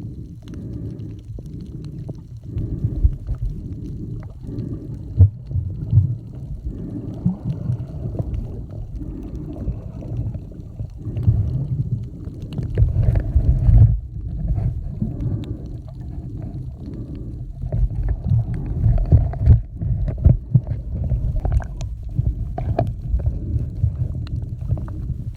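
Sea water sloshing, heard as a muffled, uneven low rumble with scattered small knocks and clicks.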